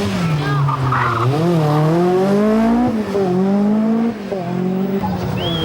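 Peugeot 205 T16 Group B rally car's turbocharged 1.8-litre inline-four engine revving hard, its pitch climbing and falling through gear changes, with a sharp drop about three seconds in and another dip just after four seconds.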